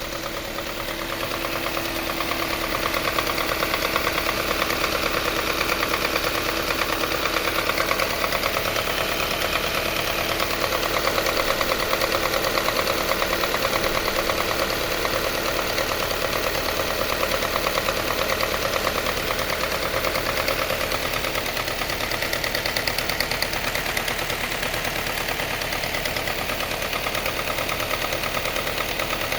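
Subaru Forester's CB18 1.8-litre turbocharged flat-four idling with a loud, continuous rapid ticking knock, a tappet-like noise that has grown louder and no longer goes away. The owner takes it as a sign that the engine has failed.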